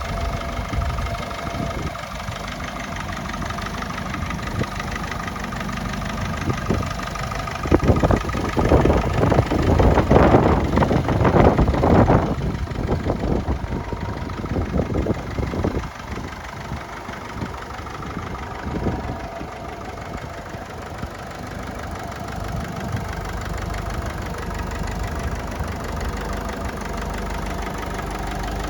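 Ferguson TE20 tractor engine running at idle, growing louder for about four seconds partway through before settling back to a steady idle.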